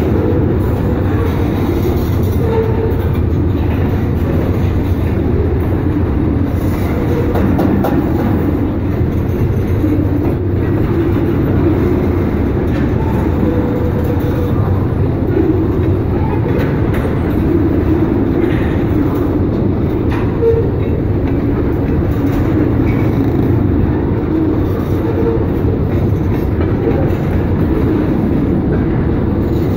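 Freight train of tank cars rolling past: a steady, loud rumble of steel wheels on the rails, with occasional faint clicks.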